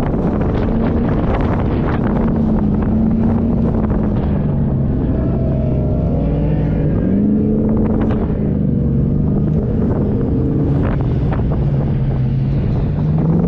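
Off-road 4x4's engine driving under load, its pitch rising and falling as it revs and eases off, with wind buffeting the microphone.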